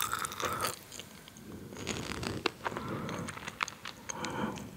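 Close-mic chewing of a crunchy salty snack: small crunches and crackles with wet mouth sounds between them.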